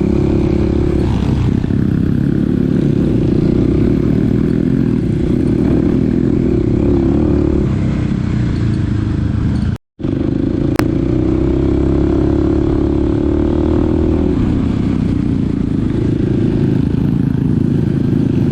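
Small dirt bike engine running under load on a trail, its pitch rising and falling with the throttle. The sound cuts out for an instant about ten seconds in.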